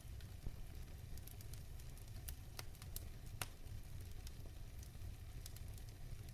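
Wood fire burning in a fireplace, with a low steady rumble and scattered sharp crackles and pops, the loudest pop about three and a half seconds in.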